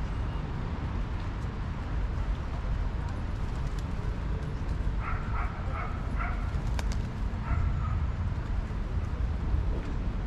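A bird calling in a quick run of short, pitched notes about halfway through, then a couple more shortly after, over a steady low rumble.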